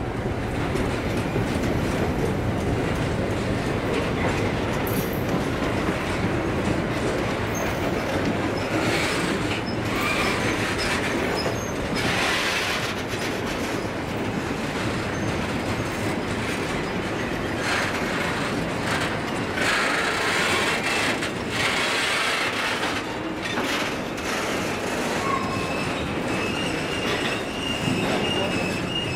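Freight train of tank wagons rolling past at close range: a steady rumble and clatter of steel wheels on the rails. Stretches of higher grinding come and go, and a thin high wheel squeal starts near the end.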